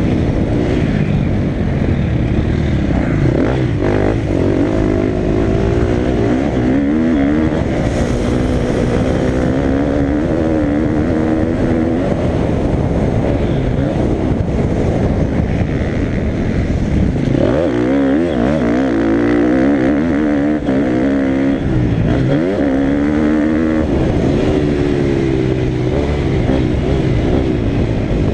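Motocross dirt bike engine running hard, its pitch rising and dropping again and again as the throttle opens and closes through the gears.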